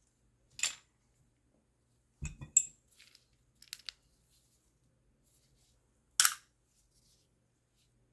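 Parts of an espresso machine and tools clicking and knocking as it is taken apart: a sharp click about half a second in, a clatter with a dull thud around two and a half seconds in, a few lighter clicks near four seconds, and another loud sharp click about six seconds in.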